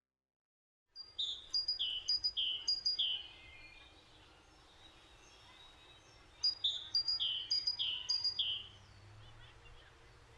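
A songbird singing, starting about a second in: two phrases of about five quick, repeated down-slurred chirps, a few seconds apart, over faint outdoor background noise.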